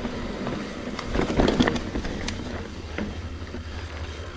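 Trek Slash 9.8 mountain bike rolling over a rough dirt trail: tyre noise and a low rumble, with scattered rattling clicks and knocks from the bike, several of them clustered about a second and a half in.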